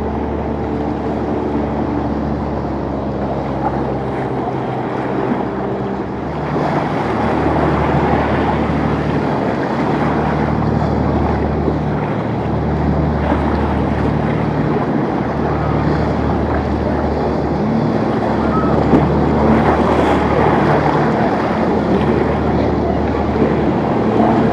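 Boat engines running steadily through choppy inlet water, with waves rushing and wind buffeting the microphone. The rush of water and wind grows louder about six seconds in.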